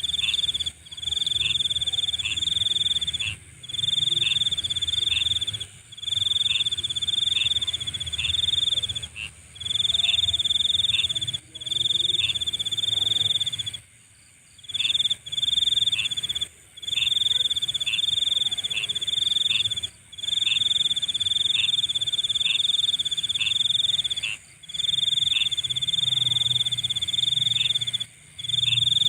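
Nighttime insect chorus: a loud, high trill, crickets or a similar insect, comes in runs of a second or two with short breaks. A steady higher-pitched hum of other insects runs underneath, along with a faint low rumble. The sound cuts out completely several times, once for about a second near the middle.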